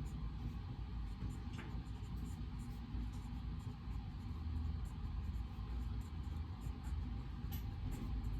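Study-room white-noise ambience: a steady low rumble with faint small clicks and brief soft sounds scattered over it.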